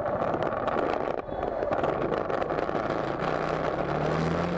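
Street traffic noise with a vehicle engine running; a low engine hum comes in about three seconds in and rises slightly in pitch near the end.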